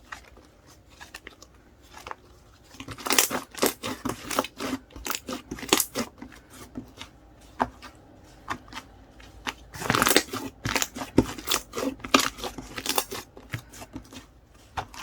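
Soft, creamy slime being squished and stretched by hand, making a run of sticky clicks and small air-bubble pops, sparse at first and then busier from about three seconds in, with another dense cluster around ten seconds.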